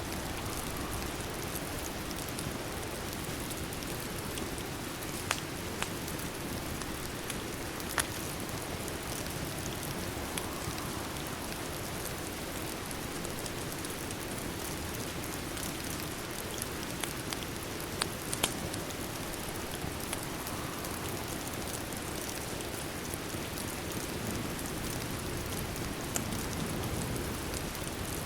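Steady rain mixed with a fireplace's crackling; a few sharp pops stand out, two of them close together about eighteen seconds in.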